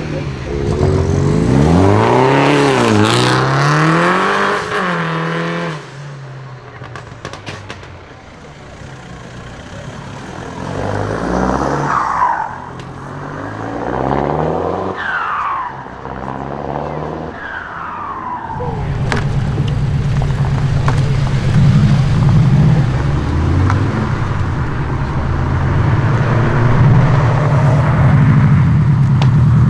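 Modified cars' engines revving and pulling away, with pitch rising and falling over the first few seconds. After a quieter stretch with a few short falling whistles, a loud, low, deep engine rumble comes in about two-thirds of the way through and holds steady to the end.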